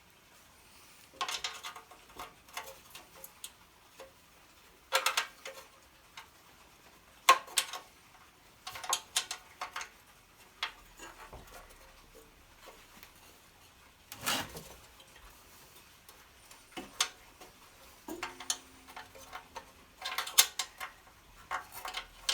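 Hand tools working on a generator's bolts: irregular clicks, rattles and metal clinks in short clusters a few seconds apart, with quieter gaps between, as a socket wrench turns 10 mm bolts and parts of the metal casing are handled.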